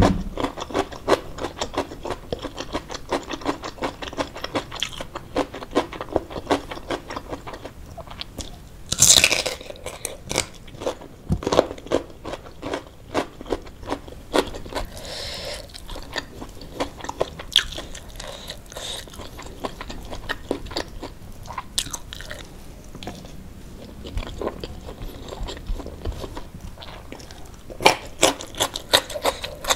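Close-miked chewing and crunching of a mouthful of rice with anchovy sambal: a steady run of small mouth clicks, with louder bursts of crunching about a third of the way in and again near the end.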